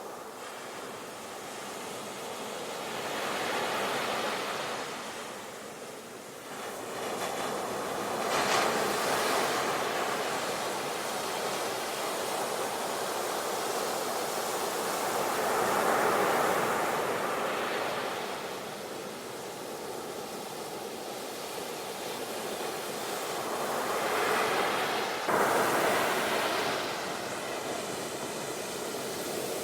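Sea waves breaking and washing on a shore: a steady rush of surf that swells louder and fades again, with about four surges, two of them starting with a sudden crash.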